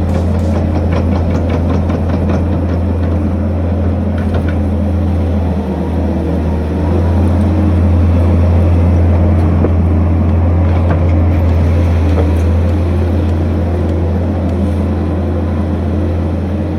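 Skid steer engine running steadily with a deep hum. It dips briefly about six seconds in, then runs louder.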